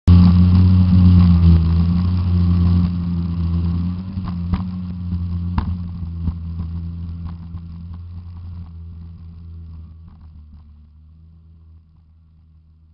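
Jet ski engine running at a steady pitch, fading away gradually over about ten seconds, with a few sharp knocks around the middle.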